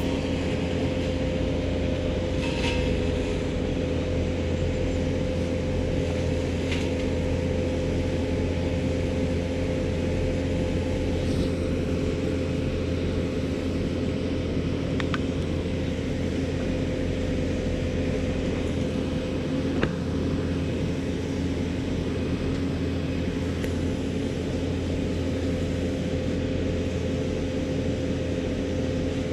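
A vehicle motor running steadily: a low rumble with a steady whine over it and no change in speed.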